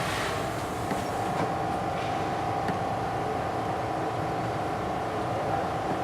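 Bombardier T1 subway train running on the rails, heard from inside the car: a steady rumble of wheels on track with a steady whine above it.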